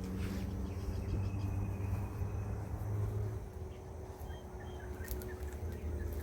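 Outdoor background noise: a steady low rumble with a few faint short high chirps about four to five seconds in.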